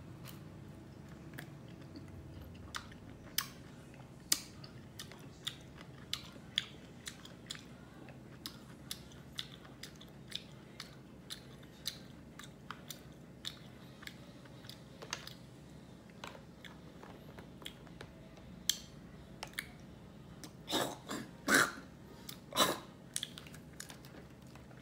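Close-miked chewing of fresh pineapple chunks: a run of small wet clicks and crunches, with a few louder ones about three quarters of the way through.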